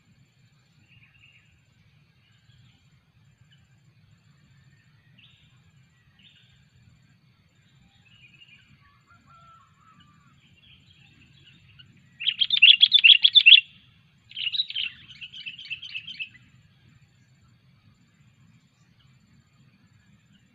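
Sooty-headed bulbul (kutilang) calling: a few soft scattered notes, then two loud bursts of rapid chattering a little past the middle, the second trailing off into quicker, softer notes.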